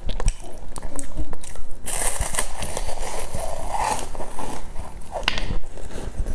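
Close-miked eating sounds: biting into and chewing a soft, powder-coated rice-cake roll, with wet mouth clicks. A noisy rustling hiss runs for a couple of seconds from about two seconds in.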